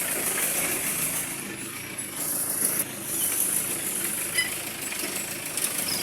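An engine running steadily with a rough mechanical noise, with a steady high hiss over it. The sound dips briefly about two seconds in.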